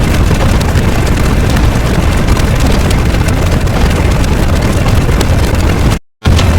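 A loud, continuous rumbling noise with a heavy low end and no clear tone. It cuts out to silence for a moment about six seconds in.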